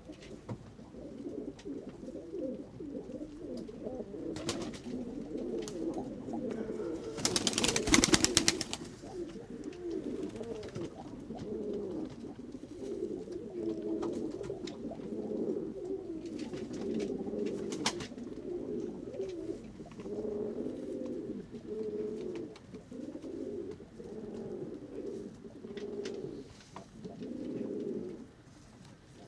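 Pigeons cooing steadily as a flock. About seven seconds in comes a loud burst of rapid wing flapping lasting a couple of seconds, as a pigeon comes in to land, with a few fainter flaps later.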